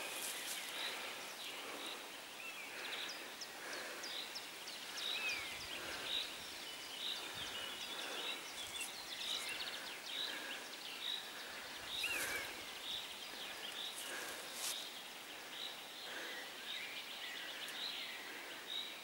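Several birds singing: many short high chirps repeating throughout, with an occasional whistled, gliding note, over a faint steady outdoor background. A few brief rustles break in now and then.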